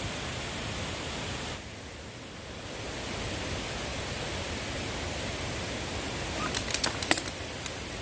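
Steady rushing noise, a little quieter for about a second near two seconds in, with a short run of sharp clicks about six and a half seconds in.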